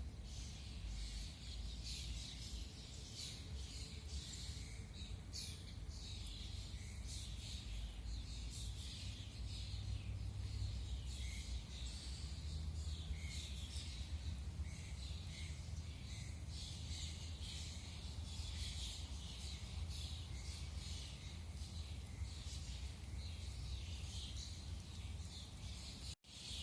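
Many small songbirds chirping and singing at once, an early-morning chorus of short overlapping calls throughout, over a steady low rumble.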